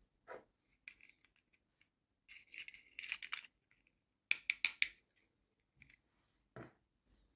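Small plastic toy packaging being handled and opened: crinkling about two to three seconds in, a quick run of sharp plastic clicks just after four seconds, and a duller knock near the end.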